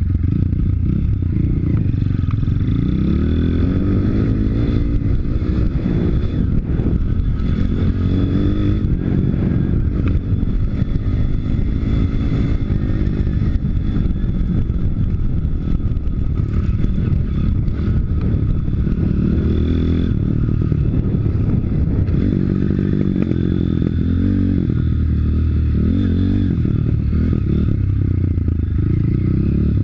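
YX 160 single-cylinder four-stroke pit bike engine being ridden, revving up and dropping back again and again as the throttle opens and closes through the gears.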